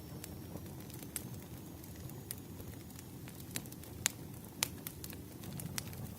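Wood campfire burning: a low steady rush of flames with irregular sharp crackles and pops of burning wood, a few louder snaps along the way.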